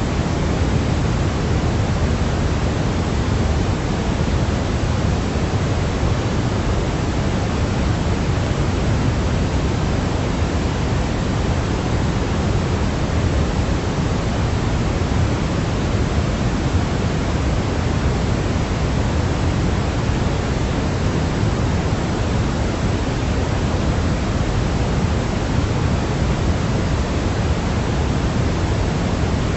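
Steady sleep-aid noise: an even, unchanging hiss with more weight in the low end than the top, like pink noise, with no breaks or changes.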